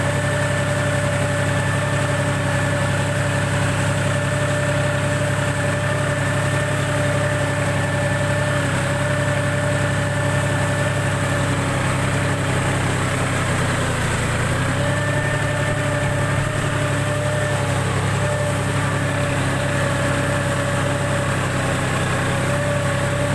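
John Deere tractor's diesel engine running steadily under load while working heavy paddy mud. Its pitch sags briefly about two-thirds of the way through, then picks back up.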